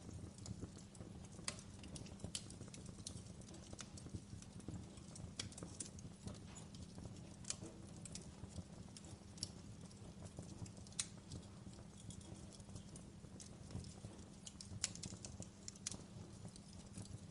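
Wood fire crackling in a fireplace: irregular sharp pops and snaps, a few every second, over a steady low rumble of the burning fire.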